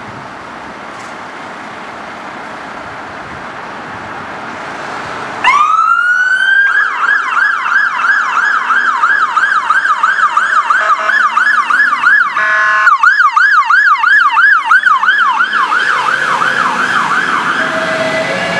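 Fire engine siren winding up with a rising sweep about five seconds in, then going into a fast yelp, after steady traffic noise. Near the middle it is cut by a short horn blast, and it fades near the end.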